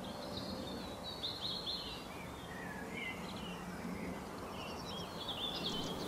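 Small birds chirping and twittering in short, high, varied phrases over a steady outdoor background hiss.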